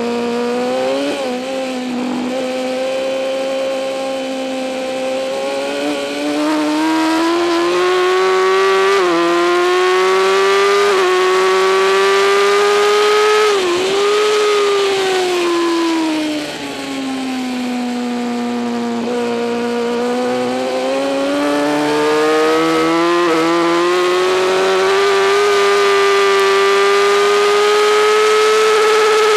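2008 Kawasaki ZX-10R's inline-four engine at full racing effort, its pitch climbing through the gears with brief dips at each upshift. About halfway it eases off and the pitch falls for a corner, then it climbs again through the gears.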